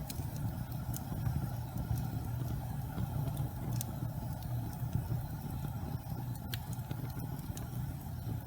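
Gas fireplace flames burning with a steady low rumble, with a few faint crackles here and there.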